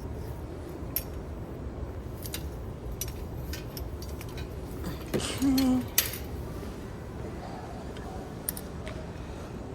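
Light metallic clicks and clinks from a folding hand truck dolly being handled and secured, with a sharper click about six seconds in, over a steady low hum.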